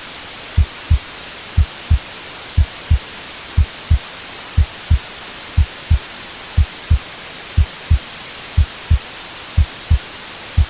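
Heartbeat sound, a pair of low thumps about once a second, over steady white-noise hiss.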